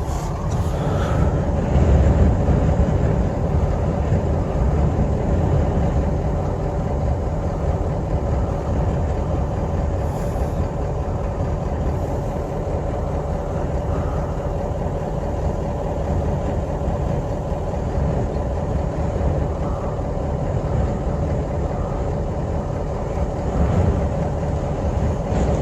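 Strong sandstorm wind making a steady, heavy low rumble and rush, with a thin steady hum underneath.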